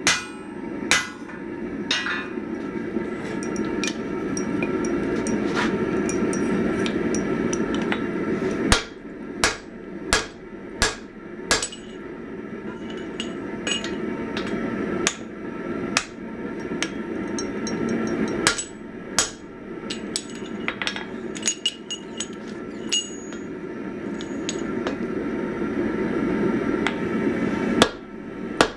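Hammer blows on hot 1045 steel at the anvil: sharp single strikes with a ringing tail, coming in loose groups of a few blows. A forge runs underneath with a steady rushing noise that drops away briefly a few times.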